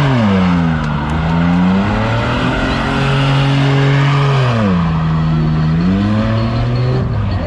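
Car engine revved hard and held at high revs while the tyres spin with a steady hiss. The revs fall about four and a half seconds in and climb again near the end.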